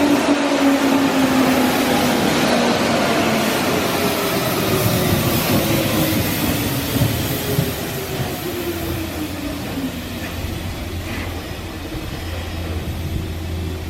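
Hanshin 5000 series 'Jet Car' electric train slowing down, its motor whine falling steadily in pitch over several seconds with wheel and rail noise underneath, easing to a low steady hum as it comes nearly to a stop.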